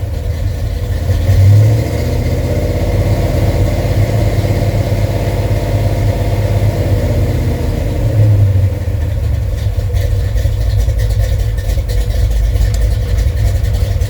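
A Ford FE 390 V8 with a Comp Cams 279 'thumper' cam runs cold through Headman headers and Summit Race Series mufflers. It idles with a deep, steady note and is blipped briefly twice, near the start and about halfway through.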